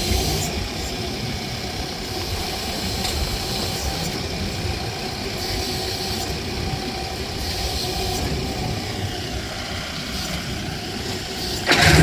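A motor vehicle engine idling with a steady rumble, and a sharp, loud knock near the end.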